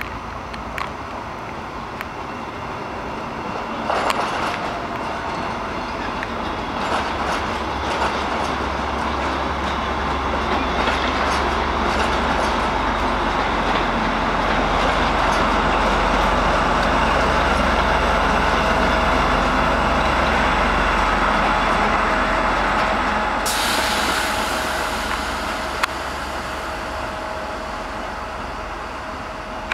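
Train running through a railway station, its rumble building up, holding loud through the middle, then easing off as it goes by, with scattered clicks from the wheels and rails. Near the end a sudden high hiss sets in.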